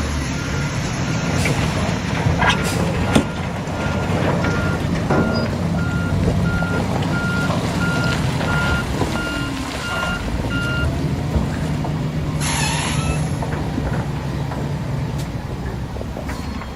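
A heavy diesel construction vehicle's engine running steadily while its reversing alarm beeps at an even pace, about one and a half beeps a second, then stops about two-thirds of the way through. Two sharp knocks come early, and a short burst of hissing air follows later.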